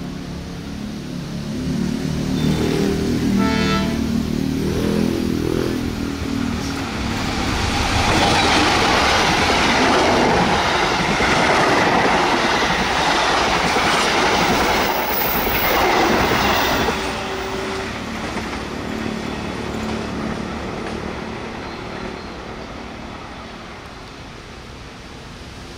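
Diesel-electric locomotive hauling a passenger train. Its engine runs as it approaches, with a short horn blast about three and a half seconds in. The carriages then rush past with wheels clattering over the rail joints, and the sound fades as the train moves away near the end.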